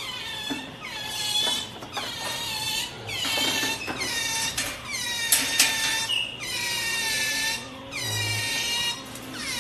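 Pet otter squealing in a string of high-pitched calls, roughly one a second, with a couple of sharp clicks about five seconds in.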